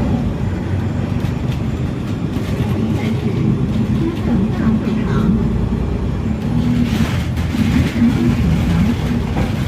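Bus engine and drivetrain running under way, heard from inside the passenger cabin, a steady low hum whose pitch rises and falls a little.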